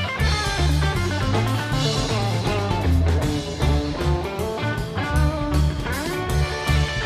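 Band music: guitar lines over a steady bass and drum-kit beat.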